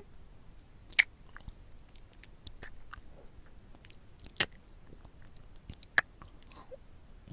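Close-up kissing and lip-smacking sounds, ASMR-style into a binaural microphone: three sharp wet smacks about one, four and a half and six seconds in, with softer lip clicks between them.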